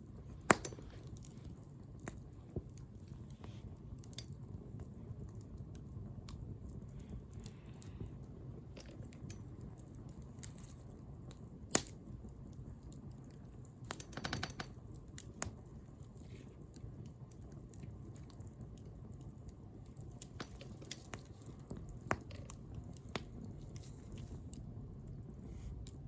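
Wood bonfire burning, with a steady low rumble of flames and scattered sharp crackles and pops from the burning wood, a few louder ones near the start and middle and a quick cluster a little past the middle.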